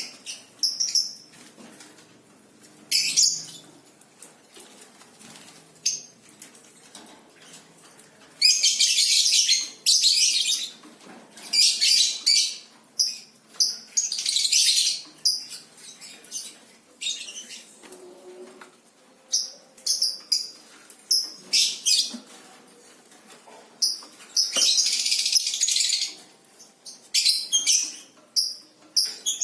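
A small songbird flapping its wings in repeated bursts, the longest lasting one to two seconds, with short high chirps in between.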